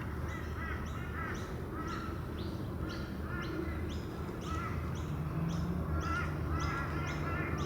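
Birds calling: a high, short falling note repeated about twice a second over softer, lower chirps.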